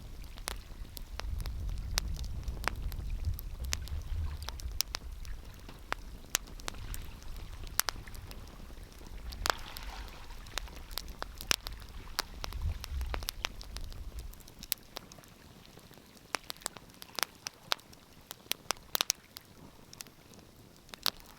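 Wood fire crackling, with frequent sharp pops and snaps. A low rumble underneath stops suddenly about two-thirds of the way through.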